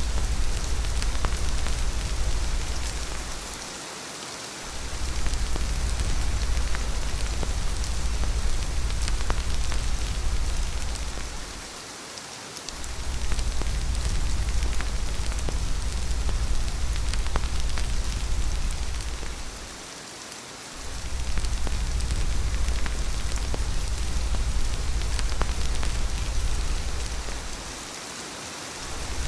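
Steady rain falling, a dense hiss of drops. Under it runs a deep rumble that fades out briefly about every eight seconds, four times.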